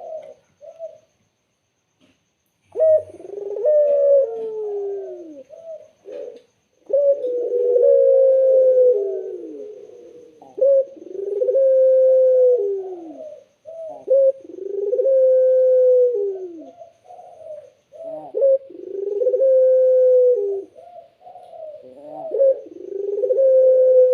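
Domestic ringneck dove (burung puter) cooing: a run of about six long, low coos, each two to three seconds long and falling away at its end, following a few short notes near the start.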